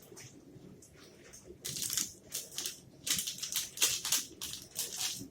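Close-up chewing of a caramel triple nut protein bar, crunchy bites coming in quick irregular bunches from about a second and a half in.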